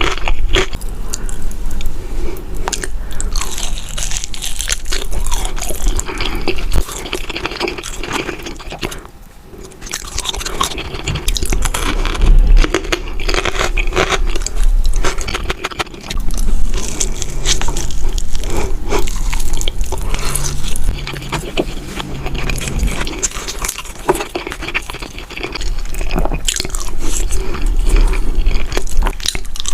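Close-miked eating: a person biting and chewing crunchy food, with many sharp crunches and crackles, dropping away briefly twice.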